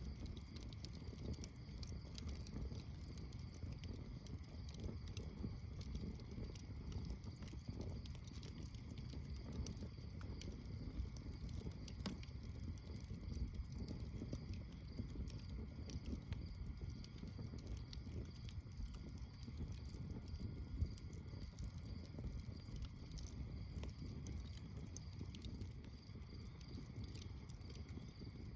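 Campfire burning with a steady low rumble and a few sharp pops, the clearest about twelve and twenty-one seconds in. Night insects chirr faintly and steadily behind it.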